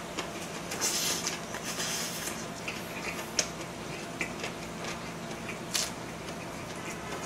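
Close-miked chewing of a big mouthful of lettuce wrap filled with pork belly, raw garlic and chili: wet, crunchy chewing, loudest about one and two seconds in, with a few short sharp clicks later.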